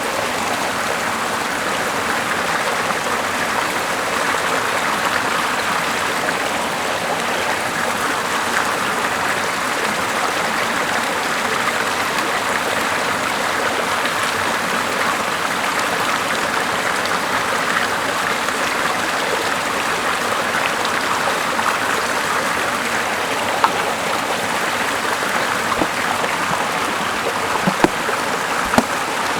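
Small river and waterfall rushing steadily as an even, full water noise. A few sharp pops stand out near the end.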